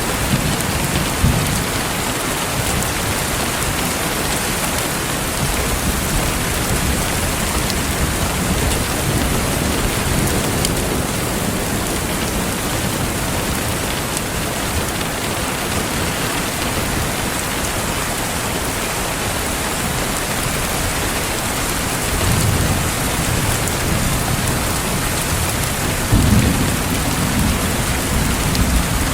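Steady rain falling, an even hiss, with low rumbles of thunder swelling twice in the second half.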